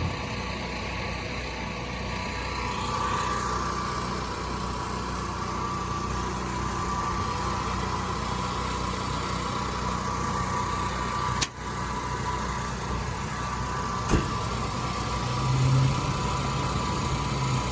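Small engines running steadily, with a brief dropout about two-thirds of the way through and a low hum near the end.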